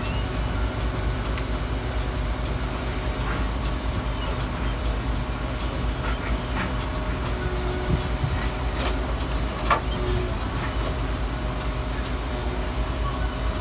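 Garbage truck engine running steadily with a low rumble, with a few short metallic knocks over it.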